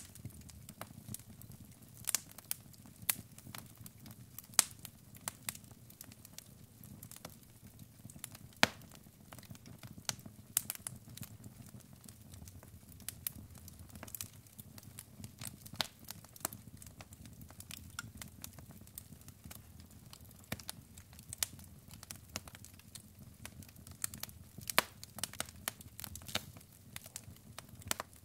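Wood fire crackling: irregular sharp pops and snaps from burning logs over a low steady hiss of flame.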